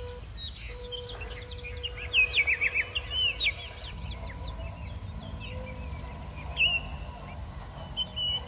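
A small bird calling in a quick run of chirps about two seconds in, with shorter calls later and near the end, over a constant low rumble and a faint steady hum.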